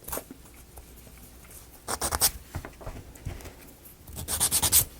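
Wooden model-kit pieces being handled and rubbed together: two short spells of quick scratchy rustling, about two seconds in and again near the end.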